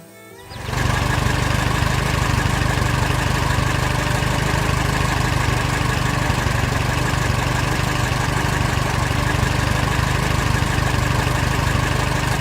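Engine idling steadily. It starts up suddenly under a second in and holds an even, loud hum with a fast flutter.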